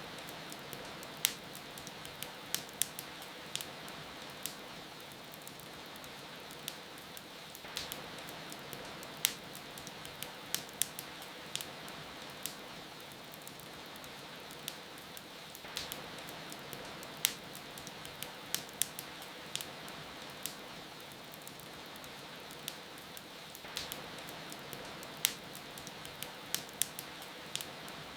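Wood fire crackling with frequent sharp pops over a steady hiss of rain. The mix repeats about every eight seconds.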